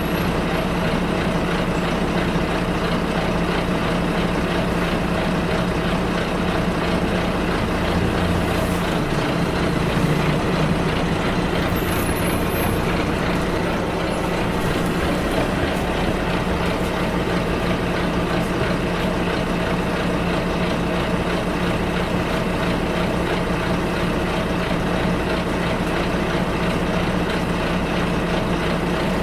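Bus ride heard from inside: the engine and road noise run steadily, and the engine note changes about nine seconds in. A faint high squeal comes in briefly a few seconds later.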